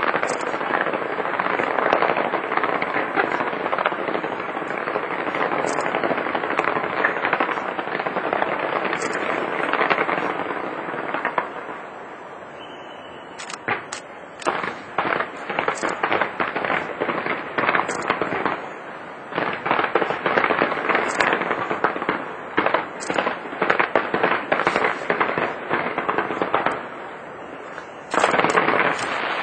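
Fireworks display going off: a dense, continuous crackle of rapid bangs that eases off about halfway, then comes back as volleys of sharp bangs and swells loud again near the end.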